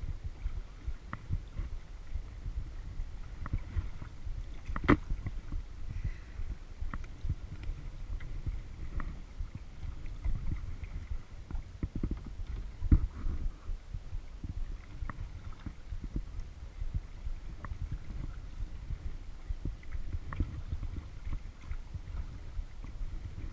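Kayak out on a lake: water sloshing and lapping against the hull with a steady low rumble, scattered paddle drips and small ticks, and two sharper knocks on the hull, about five seconds in and again near thirteen seconds.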